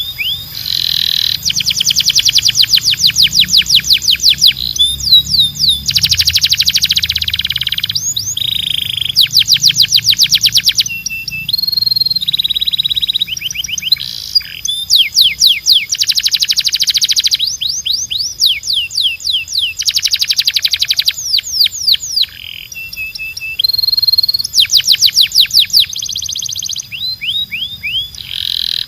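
A canary singing a continuous song of rapid trills. Each phrase is a fast run of repeated sweeping notes, and the song switches to a new phrase every second or two with brief pauses between.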